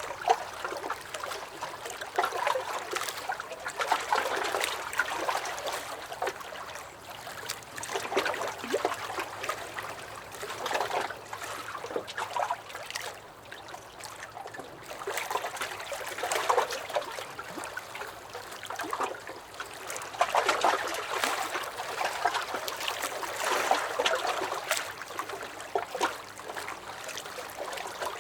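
Small lake waves lapping and splashing against a dock, an irregular run of little sloshes and trickles that swell and ease every few seconds.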